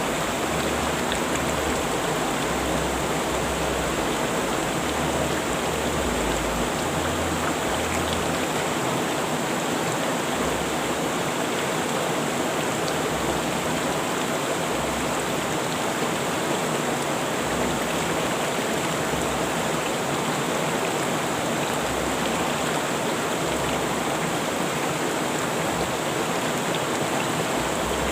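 River water rushing steadily over rocks, a dense even hiss of flowing water.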